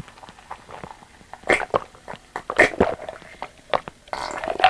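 Close-miked eating sounds: chewing with irregular wet mouth clicks and smacks, with a few louder wet bites or slurps.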